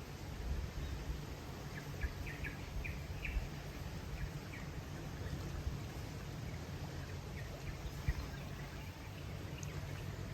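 Outdoor ambience: a steady low rumble with a few short, high bird chirps clustered about two to four seconds in.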